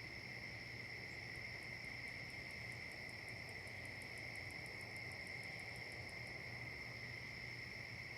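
Autumn chorus of crickets, a steady high-pitched trill. A second, higher insect call of quick regular pulses, about five a second, joins about a second in and stops about six seconds in.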